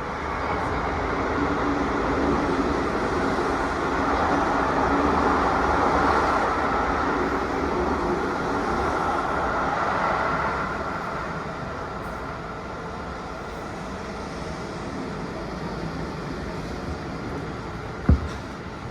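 Running noise inside a Seibu New 2000 series electric train car: steady rumble of wheels on rail with a faint motor drone, swelling toward the middle and easing off after. A single sharp knock near the end.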